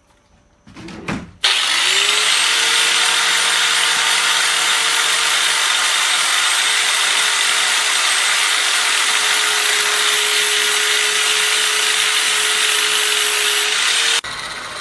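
An electric grinder starts about a second and a half in, spinning up to speed, and runs steadily grinding metal, then shuts off near the end.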